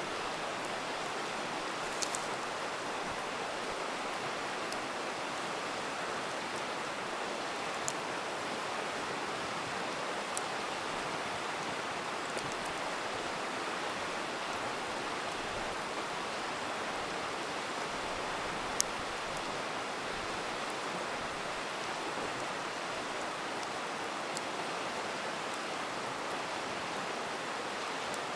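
River rushing steadily, with a campfire giving a few sharp crackles and pops now and then, the loudest about nineteen seconds in.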